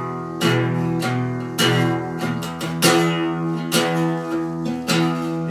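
Guitar strummed in a steady rhythm, chords ringing on with a strong stroke a little over once a second.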